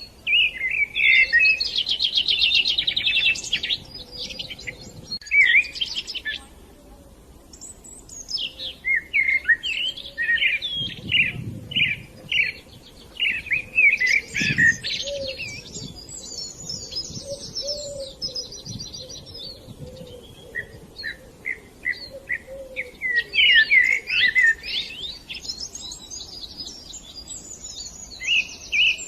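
Budgerigars chirping and chattering in quick runs of high warbling calls, with a brief lull about seven seconds in.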